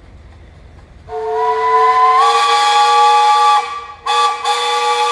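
Russell steam traction engine's steam whistle blowing: a loud, several-toned whistle starts about a second in, rises slightly in pitch, breaks briefly, then sounds again.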